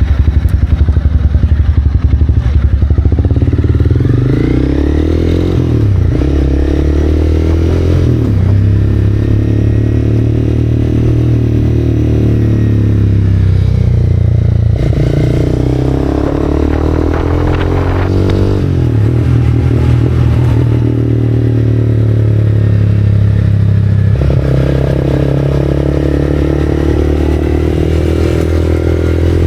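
Honda CB300R's single-cylinder engine through an Arrow aftermarket exhaust, ridden and revving through the gears: the pitch climbs and drops back several times as it shifts, with hard revs at the start.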